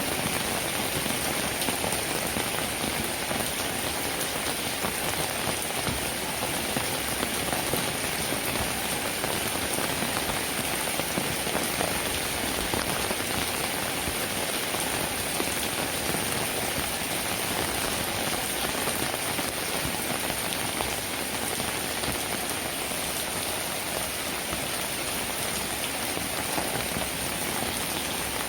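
Steady rainfall: a dense, even hiss of countless drops that holds at one level throughout.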